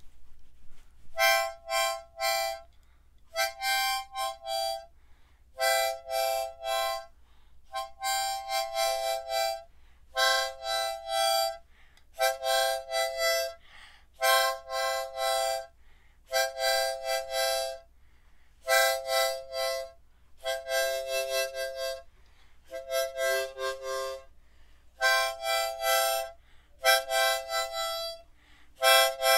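Solo harmonica playing a slow tune in short chorded phrases, each about a second long, with brief breaths between them.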